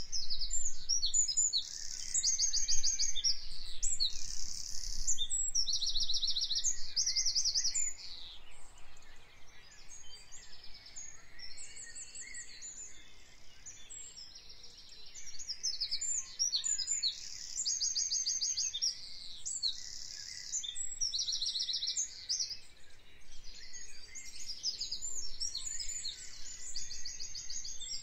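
Small birds singing: high, rapid trills and chirps, repeated phrase after phrase, softer for a few seconds in the middle.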